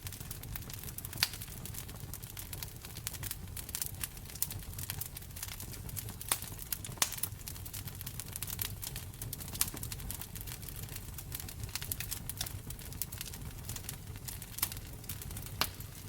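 Wood fire crackling: a dense, irregular run of small pops and ticks with a few sharper snaps scattered through, over a low steady rumble of the burning fire.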